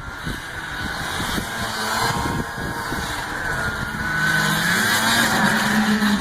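Ski-Doo Blizzard 5500 MX snowmobile's twin-carb two-stroke engine running under way, growing louder and rising in pitch from about four seconds in.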